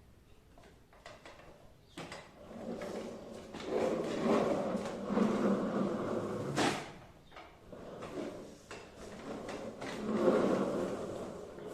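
A child's toy car rolling and scraping across a hard floor in two stretches, with a sharp click about two seconds in and another near the middle.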